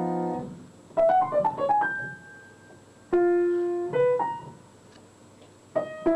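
Atonal twelve-tone piano music: a held chord dies away, a quick run of scattered notes comes about a second in, then single notes and small chords are struck with pauses between them.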